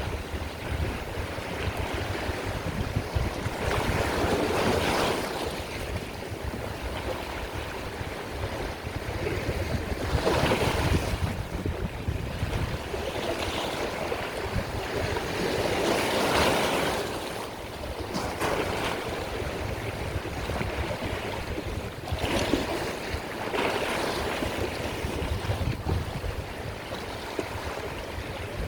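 Sea waves surging and washing in, a loud swell about every six seconds with a steady rush of surf between them.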